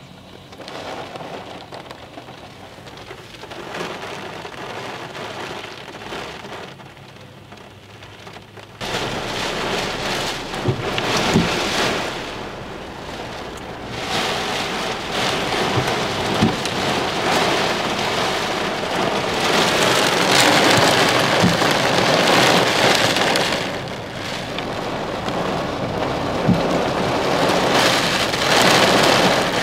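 Thunderstorm rain, light at first, then turning suddenly into a heavy downpour about nine seconds in and swelling in waves as the storm passes over.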